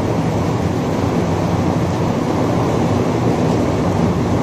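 Heavy rain falling: a loud, steady rushing noise, mostly low in pitch, with no single drops, thunder claps or changes standing out.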